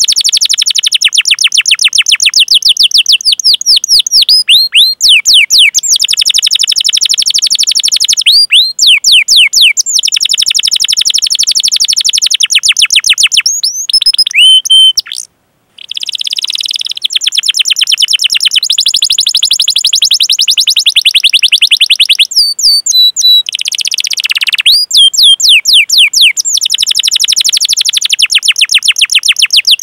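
Domestic canary singing long, rapid rolling trills of repeated chirping notes ('cuit cuit'). The trills are broken by short pauses and one brief silent break about halfway through.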